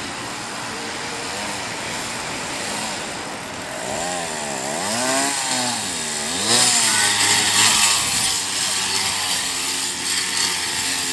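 A small motor-like running sound, its pitch swooping up and down a few times around the middle, then turning louder with a rushing hiss.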